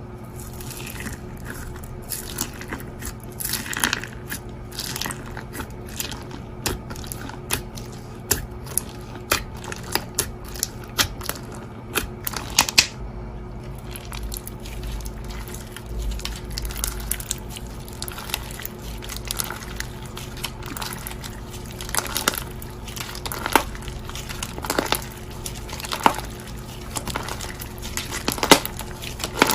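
Hands squishing and pressing a bead-filled slime, giving irregular crunching clicks and pops, over a steady low hum.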